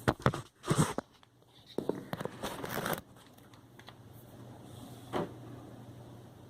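Handling noises of a Maytag Centennial washer's shifter and shift sensor being fitted by hand: a few sharp knocks at the start, a rustling scrape about two seconds in, and one more knock about five seconds in. A low steady hum runs underneath.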